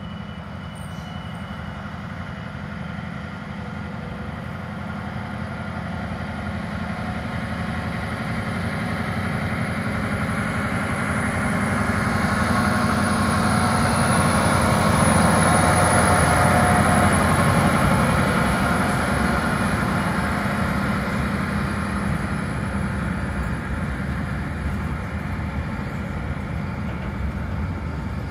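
Diesel locomotive hauling a freight train of covered car-transport wagons, approaching and passing with its engine running. The sound grows louder to a peak about halfway through, then slowly fades as the wagons roll by.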